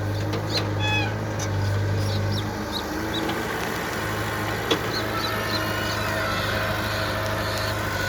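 Heavy diesel engine of earthmoving machinery running steadily with a deep low hum, while short high chirps come and go over it. A single sharp click stands out a little past halfway.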